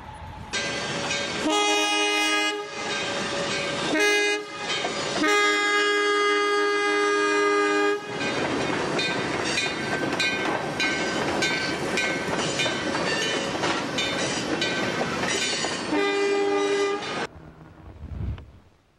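Train horn blowing, first a short blast, then a brief one, then a long blast of about three seconds. After it comes the steady rumble and clatter of rail cars rolling past a crossing, and one more horn blast of about a second near the end.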